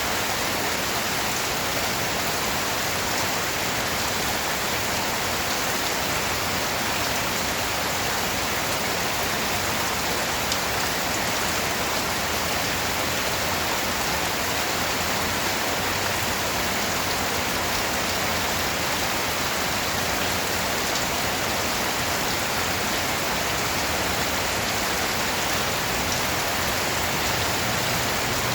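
Steady heavy rain falling on a surface, an even dense hiss without thunder or pauses.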